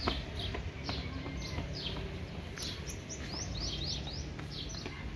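Small birds chirping: many short, falling chirps that come thicker after about three seconds, with a few sharp ticks and a steady low rumble underneath.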